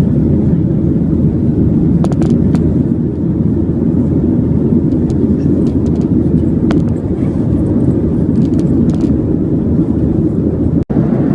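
Steady low rumble of a moving vehicle heard from inside it, with a few faint clicks and rattles over it. It breaks off abruptly near the end.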